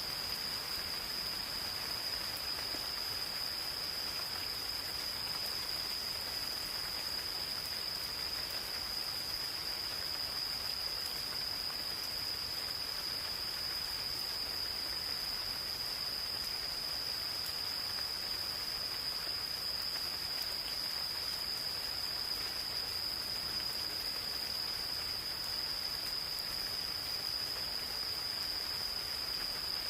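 Gentle rain falling as a steady hiss of drops, with insects calling in one continuous high-pitched trill over it.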